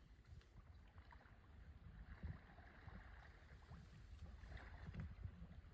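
Faint water sounds of a kayak paddle dipping and splashing, twice swelling a little, over a low rumble.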